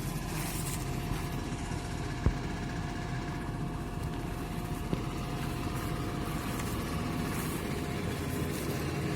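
Harvest machinery engine running steadily at an even speed, with a faint steady whine over it through the middle and a single sharp click about two seconds in.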